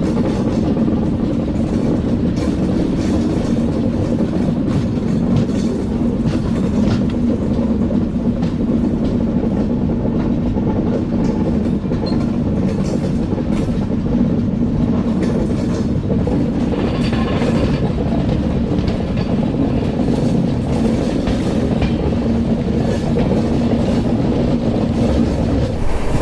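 Himsagar Express passenger train running at speed, heard from on board: a steady rumble of the moving coach with wheels clicking irregularly over the rail joints.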